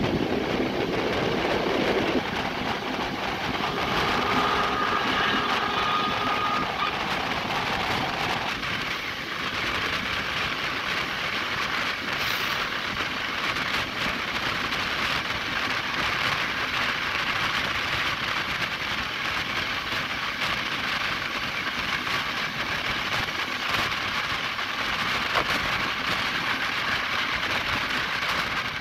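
Steam-hauled passenger train running on the incline, heard from an open coach window: a steady noise of wheels on the rails mixed with wind rushing past.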